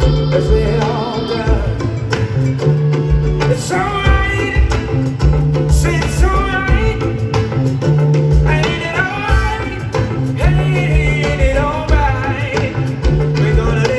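Live band music: a repeating bass line and drums, with a melodic lead part that bends in pitch in phrases of a few seconds.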